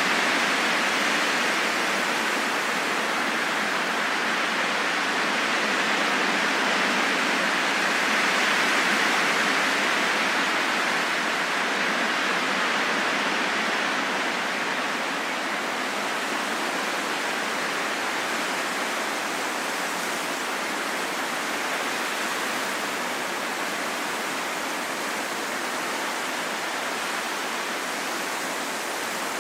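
Steady rain falling in a forest: an even, continuous hiss with no distinct drops or thunder.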